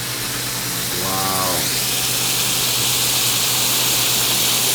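Sizzling beef on a hot iron plate, a loud steady hiss that swells about a second and a half in and then holds. A short voiced sound comes just before the swell.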